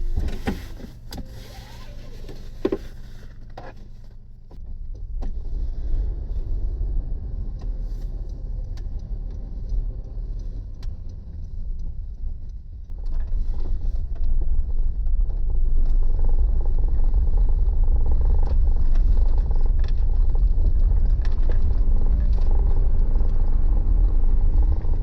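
Honda N-VAN kei van driving: a steady low engine and road rumble that gets louder about halfway through, with a few clicks in the first seconds.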